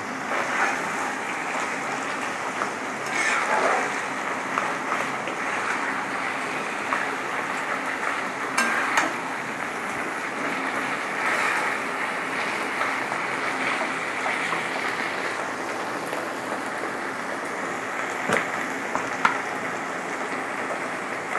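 Boiled taro leaves with fish heads and spices sizzling steadily in hot oil in a wok, with a spatula stirring and a few light taps of it against the pan.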